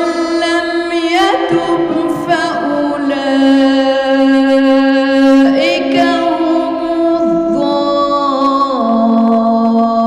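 A woman's voice reciting the Quran in melodic tajweed style, holding long notes that slide and step between pitches.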